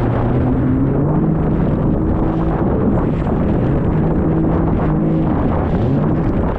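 Jet ski engine running under way, its pitch rising and falling several times with the throttle, over a loud, steady rushing noise.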